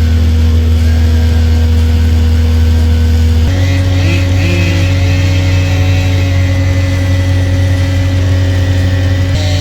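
A heavy engine running at a steady speed, its pitch stepping up suddenly about three and a half seconds in.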